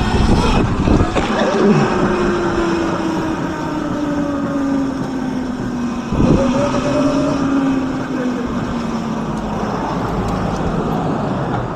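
Electric motorbike riding along, its motor whine slowly dropping in pitch, jumping up about six seconds in as it speeds up, then falling again. Wind and road noise run underneath, with a few knocks near the start.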